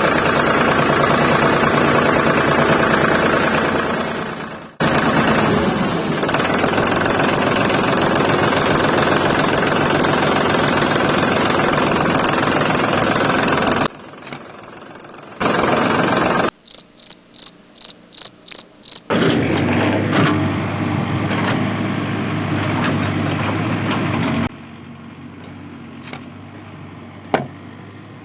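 Miniature diesel engine running with a steady, high buzzing rattle, broken off by several abrupt cuts. Partway through comes a run of about eight short, even pulses, and near the end the sound drops much quieter, with a few clicks.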